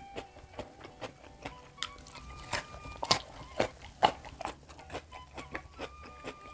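Close-up mouth sounds of eating raw lalapan and rice with sambal by hand: irregular sharp crunches, clicks and wet smacks while chewing, loudest twice about halfway through.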